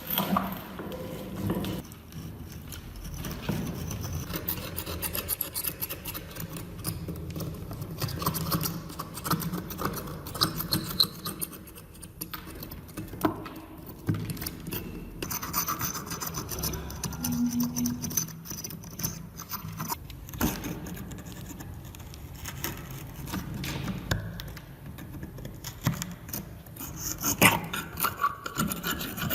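Rusty metal of a vintage manual meat grinder being scraped and rubbed by hand to clean off the rust: an uneven rasping, broken by a few sharp knocks.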